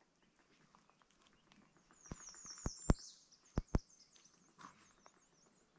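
A songbird sings a quick run of high, down-slurred chirps for about three seconds, over quiet outdoor ambience. A few sharp pops or clicks sound around the middle, the loudest about three seconds in.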